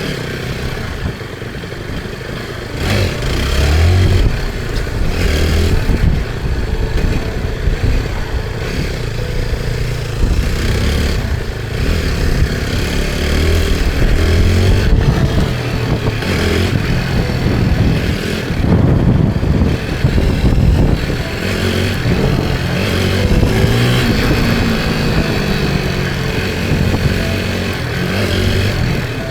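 Motorcycle engine running while riding, its pitch rising and falling as the throttle and speed change, with road and wind noise.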